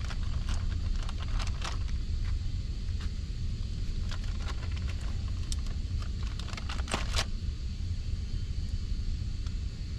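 A steady low rumble, with scattered clicks and rustles of the rebuild kit's small parts and packaging being handled; the sharpest clicks come about seven seconds in.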